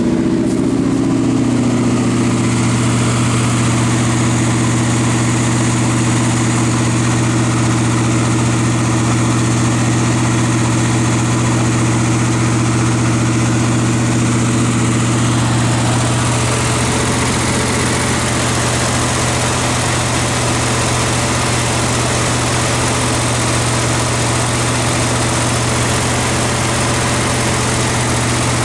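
Chevrolet LT1 5.7-litre V8 idling steadily, its note shifting slightly about halfway through; it is an engine the owner says will not idle at the proper rpm.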